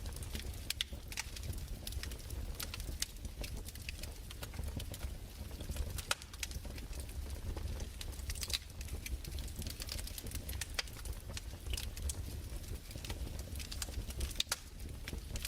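Wood fire crackling: irregular sharp snaps and pops scattered over a steady low rumble.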